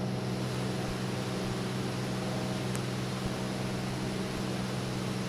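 Cessna 206 single-engine piston engine and propeller droning steadily in cruise, heard inside the cabin as an unchanging low hum under a broad hiss.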